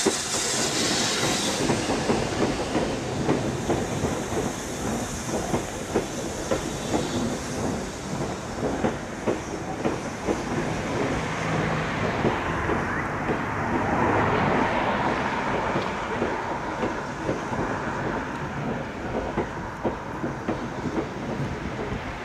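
Steam-hauled passenger train passing close by: coach wheels rattle over rail joints in a continuous clickety-clack as the coaches roll past. The locomotive, BR Standard Class 7 'Britannia' 70013, gives a brief hiss of steam at the start.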